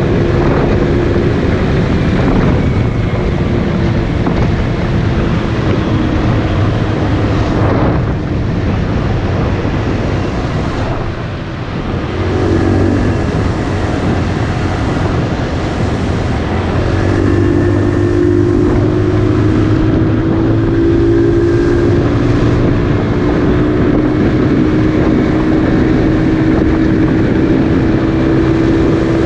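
Motorcycle engine running while riding, with wind noise on the microphone. About eleven seconds in the engine eases off, then pulls again and climbs slowly in pitch.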